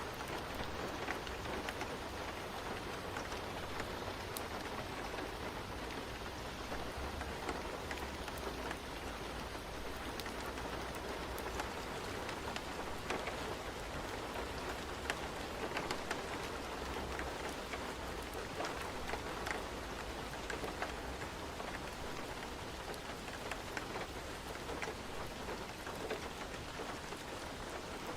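Steady rain falling, an even hiss with a low rumble underneath and scattered faint ticks of drops or crackles.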